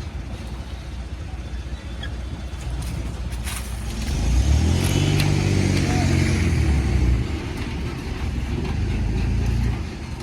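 JCB 3DX backhoe loader's diesel engine running, revving up about four seconds in and holding for about three seconds, then easing back down near the end.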